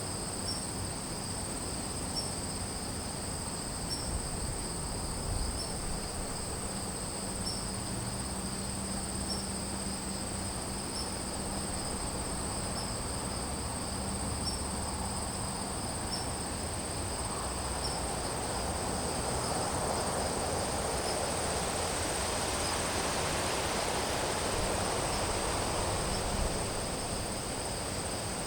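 Crickets trilling continuously in a steady chorus at two high pitches. In the second half a broad rushing noise swells up and fades again beneath them.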